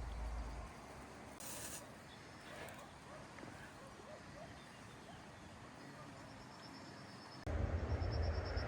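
Faint outdoor ambience with scattered small bird chirps. About seven and a half seconds in, a much louder low rumble begins suddenly, with a rapid high-pitched bird trill over it.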